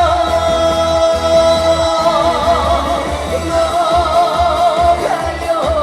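A male trot singer holds one long sung note over a band backing track with a steady bass beat; the note wavers into vibrato about three and a half seconds in.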